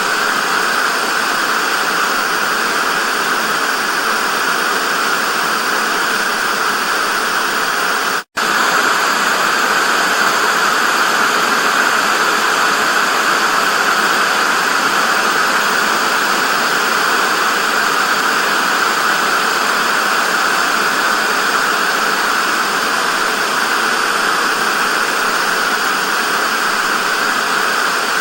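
Television static: a steady hiss that cuts out for an instant about eight seconds in, then carries on unchanged.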